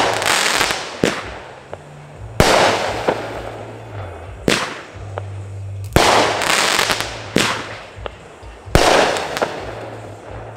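Consumer fireworks going off in a steady barrage: a loud bang about every second and a half, each dying away over a second or so before the next.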